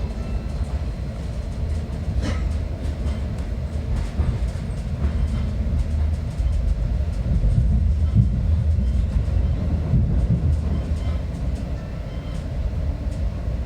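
Metra commuter train running by on the rails: a steady low rumble with scattered clicks of the wheels, growing slightly louder past the middle.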